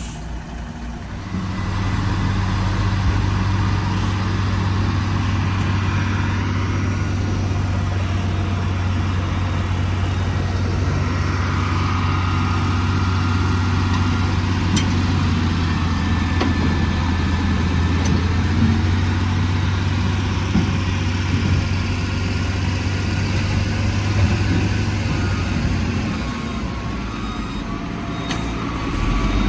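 Heavy diesel engine running steadily at constant speed. It comes up about a second in and eases off near the end.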